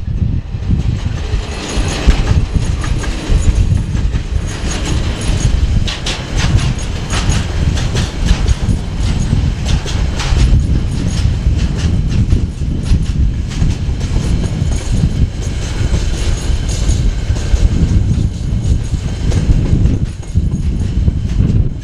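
Freight train wagons rolling past close by with a heavy rumble, their wheels clicking repeatedly over the rail joints.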